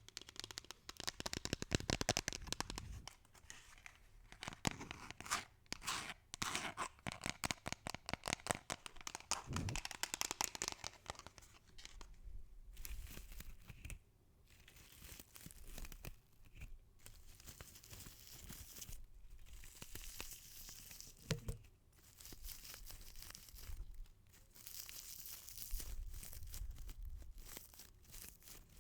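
Close-miked crinkling and crackling from an ASMR trigger being worked by hand: dense, rapid crackles that come in uneven waves, thickest in the first half and thinner and quieter later.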